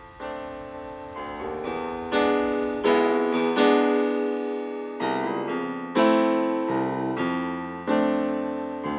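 Piano music: soft chords struck about once a second, each note fading away.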